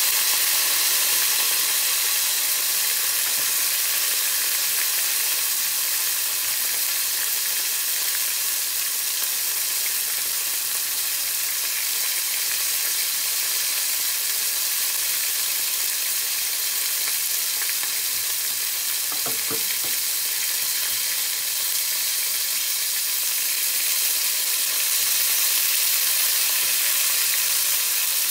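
Eggplant slices sizzling as they fry in shallow oil in a pan, a steady hiss, with one soft knock about two-thirds of the way through.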